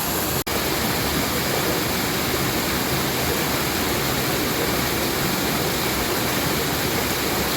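Small woodland stream rushing steadily over rocks, broken by a split-second dropout about half a second in.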